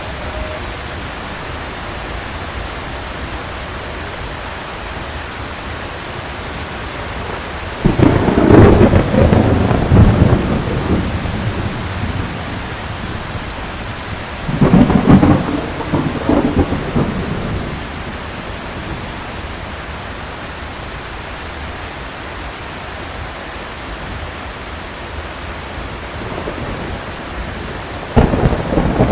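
Heavy rain falling steadily, with three peals of thunder. The first breaks suddenly about eight seconds in and rumbles for about three seconds. The second comes at about fifteen seconds, and the third starts just before the end.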